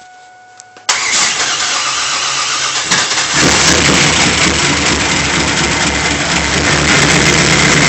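1997 Pontiac Trans Am's 5.7-litre V8 being cranked by the starter from about a second in, catching about three seconds in and then running with a misfire on its first start.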